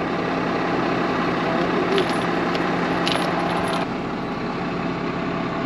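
Valmet tractor engine idling steadily, driving a tractor-mounted snow blower, with a few light metallic clinks about two and three seconds in.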